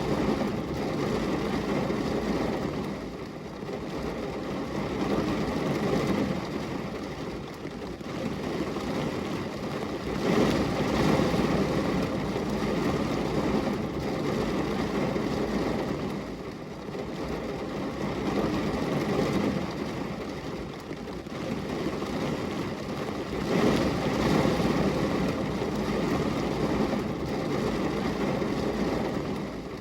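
Rain falling on a glass window pane: a steady hiss that swells and eases every six or seven seconds.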